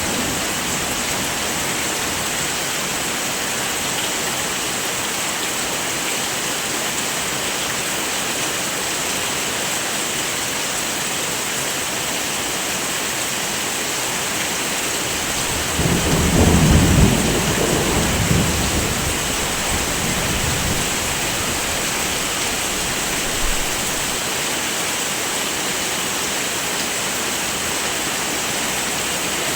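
Heavy, steady rain with a roll of thunder about halfway through that rumbles low for a few seconds and fades away.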